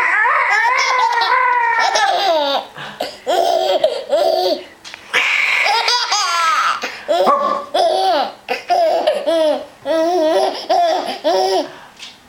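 A baby laughing hard in quick, repeated bursts of belly laughter, set off by an adult's drawn-out animal-noise imitations, which glide in pitch.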